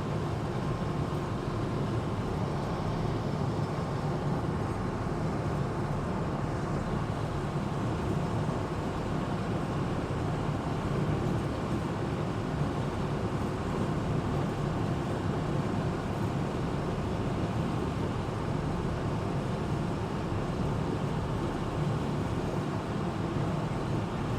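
Amphibious Duck tour vehicle cruising on a river: a steady engine drone with running noise, unchanging throughout.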